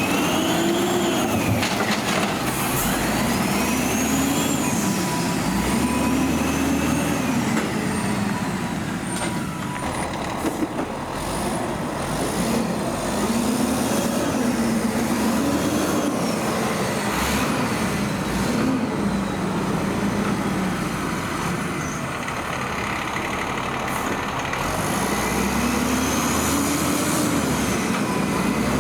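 Diesel engine of a Peterbilt 320 garbage truck revving up and down again and again as it drives the hydraulics, with a high whine rising and falling along with the revs.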